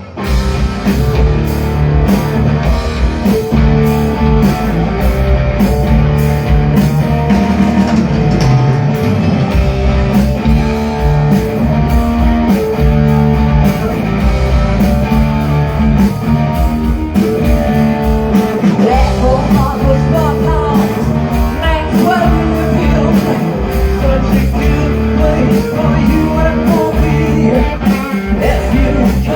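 Rock band playing a blues-rock number: electric guitar, bass and drum kit at a steady beat, with singing.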